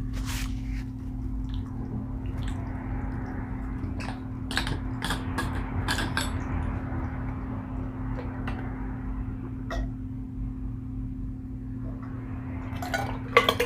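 Close-miked eating sounds: chewing and wet mouth noises from a meatball sub, with scattered short clicks and clinks, over a steady low hum.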